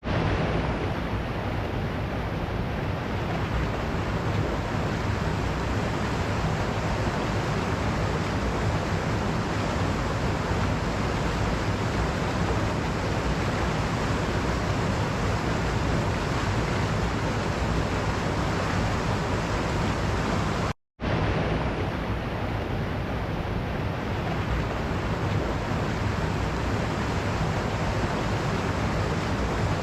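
Waterfall: a steady, dense rush of falling water. It cuts out for a split second about two-thirds of the way through.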